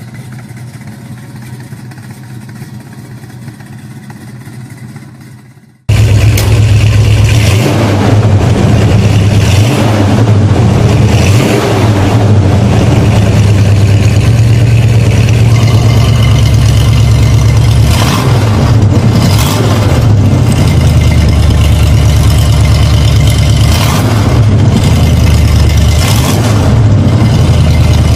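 A car engine running quietly, then, after a sudden cut about six seconds in, a much louder car engine running and revving.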